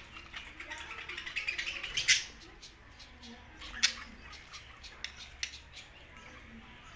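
Pet budgerigars chattering and warbling, with two sharp loud chirps, about two seconds and about four seconds in.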